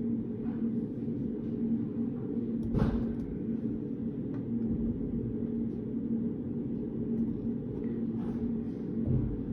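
Steady low hum of study-room background noise with a few faint taps and rustles of desk work, and one sharper knock about three seconds in.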